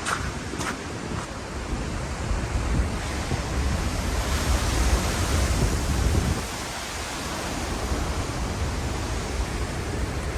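Typhoon-driven surf surging and breaking on a rocky shore, with strong wind buffeting the microphone. The rush builds to its loudest about four to six seconds in, then eases.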